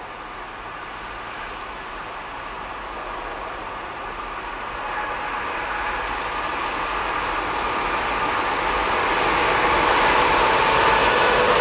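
Locomotive-hauled container freight train approaching, its rumble growing steadily louder, with a steady hum of several tones over the noise of the wheels.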